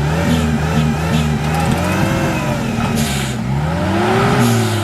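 An off-road 4x4's engine revving up and down repeatedly, in several quick rises and falls and then two longer swells, as it works along a rough trail. Brief bursts of hiss come about three seconds in and near the end.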